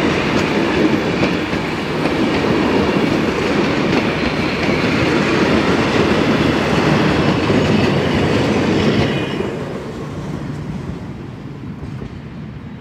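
Steam-hauled passenger train's carriages and rear tank wagon rolling past on the rails, a steady loud rolling noise of wheels on track. About nine seconds in, as the last wagon passes, the sound drops away and fades as the train moves off.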